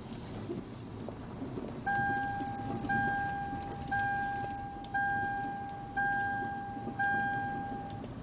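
A car's warning chime dinging six times, about once a second, each ding a clear tone that fades before the next, over a low steady rumble.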